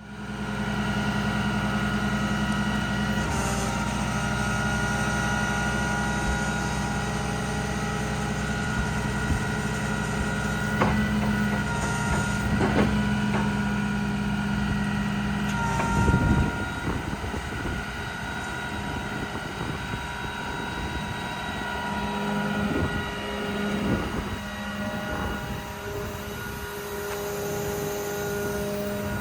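Diesel engine of a 2015 Ram 5500 work truck running steadily, a Cummins 6.7-litre inline-six. About sixteen seconds in the steady hum breaks up after a short louder burst, runs rougher, and settles again near the end.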